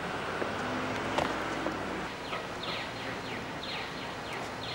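Steady outdoor background noise, with a bird starting up about two seconds in: a rapid series of short falling chirps, about three a second.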